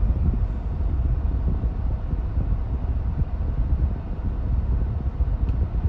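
Mercedes-Benz E300 idling with the air-conditioning blower running, heard from inside the cabin as a steady low rumble and air hiss.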